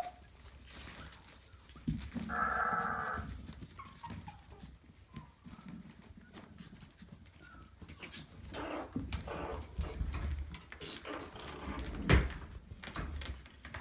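Maltese puppy giving one high, drawn-out cry of about a second, a little after two seconds in. Scattered shuffling and handling noises follow later, with a sharp knock near the end.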